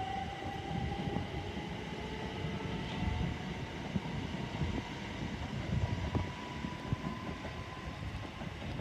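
Electric multiple-unit train pulling away, its traction motors whining in a single tone that rises slowly and steadily in pitch as it gathers speed, over a low rumble of wheels on the rails.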